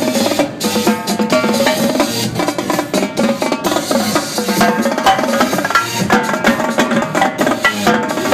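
Live drumming with sharp, rapid hits, played over an electronic dance music track with a melodic synth line.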